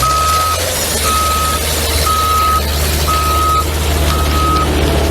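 Backup alarm on a piece of heavy construction equipment, sounding steady high beeps about once a second, each about half a second long, over the low, steady drone of its engine running.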